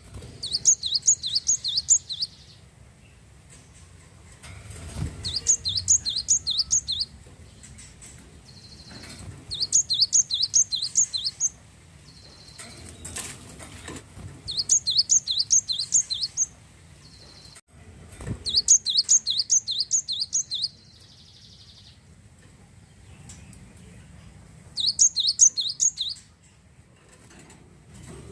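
Glatik wingko (cinereous tit) singing: six bursts of rapid, high, repeated notes, about five a second. Each burst lasts one and a half to two seconds, with pauses of two to three seconds between them.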